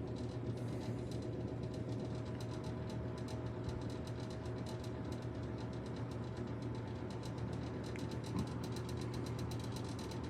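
Older Galaxy box fan running steadily on medium: a low motor hum and blade whoosh, with a fast, fine rattle from its loose, worn front grill.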